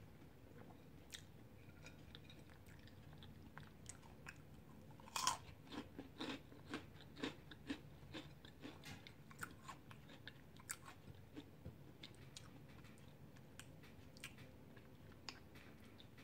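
Faint chewing and mouth sounds of someone eating chicken wings coated in crushed Flamin' Hot Cheetos, with short irregular clicks, the loudest cluster about five seconds in.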